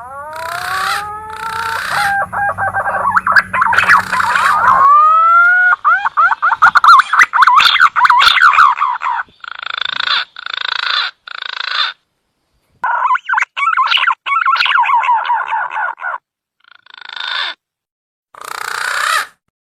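Green pigeon (punai) lure call: bursts of whistled notes that glide upward and fast warbling trills, each burst cut off abruptly by a short dead-silent gap.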